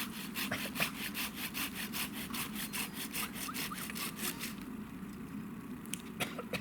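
Hand saw cutting through wood with quick, even strokes, about four a second, stopping about four and a half seconds in; two sharp knocks follow near the end.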